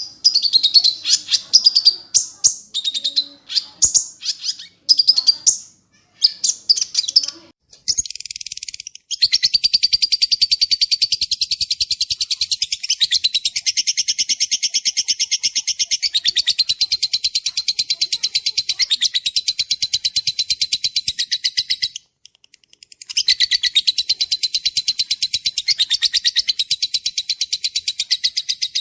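Songbird singing: a few seconds of varied, high chirping phrases, then a long, very rapid trill of repeated notes that stops briefly about two-thirds of the way through and starts again.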